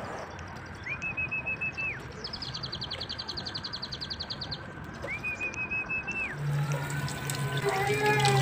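Outdoor birdsong: two whistled bird calls, each about a second long with a slightly warbling top, and between them a fast high trill of roughly a dozen pulses a second. Near the end a kitchen tap starts running, with a steady low hum under the splashing water.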